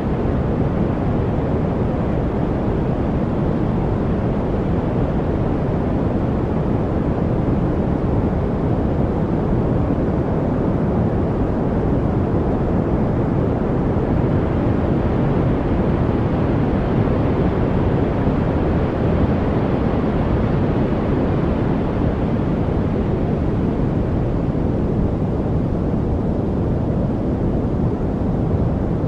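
Steady masking noise from a white-noise study track: an even, deep hiss that does not change, with no birds, drips or other separate sounds in it.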